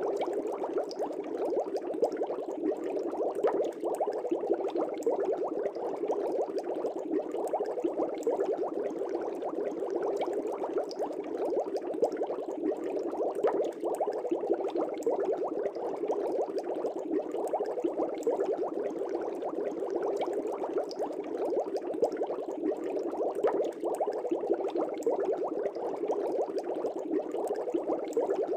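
Aquarium air bubbles rising and breaking at the water surface in a steady, dense bubbling with many tiny pops.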